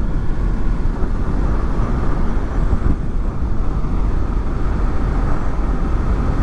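Steady wind rush and the Honda VFR800's V4 engine running while the motorcycle is ridden, picked up through furry windshields over the rider's microphones, with wind blast coming off the fairing at neck level.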